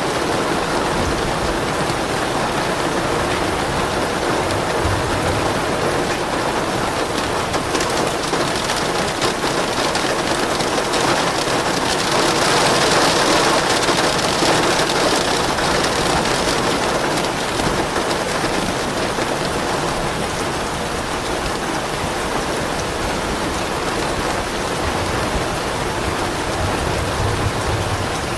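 Steady rain falling, with the downpour growing heavier for a few seconds near the middle. Soft, low thunder rumbles faintly under the rain, most noticeably near the end.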